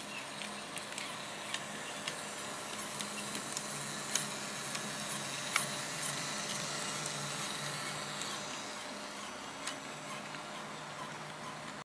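Bemo HOm-scale model train running on the layout: a low electric motor hum with irregular small clicks of the wheels over the track, over a steady hiss.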